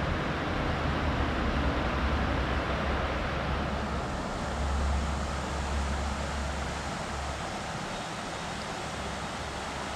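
A passing vehicle's low rumble, swelling about halfway and fading out about three-quarters of the way through, over the steady rush of river water.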